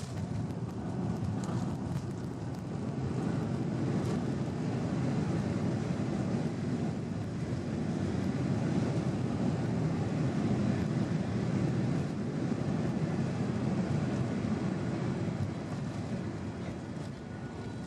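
Cabin noise aboard a Boeing 737-800: a steady rumble of engines and airflow. It grows louder in the middle and eases off near the end.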